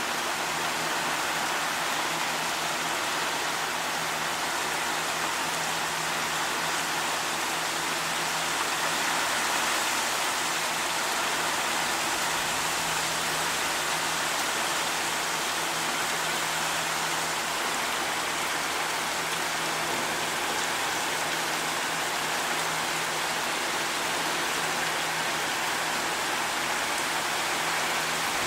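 Rain falling in a steady downpour: an even, unbroken hiss that neither builds nor eases.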